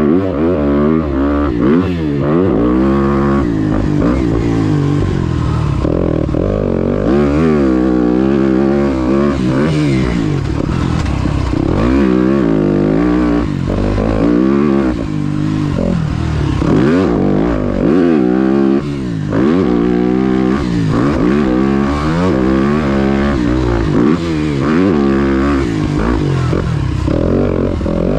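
Dirt bike engine ridden hard, its pitch climbing and dropping every second or two as the rider accelerates and backs off over and over.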